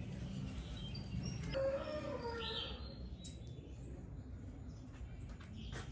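Faint bird calls, short chirps in the first half, over a low background rumble, with a few light clicks later on.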